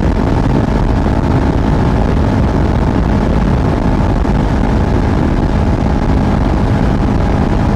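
Steady wind rush mixed with the even drone of a 2024 Kawasaki Ninja 500's parallel-twin engine at a constant cruise, heard through a helmet-mounted mic.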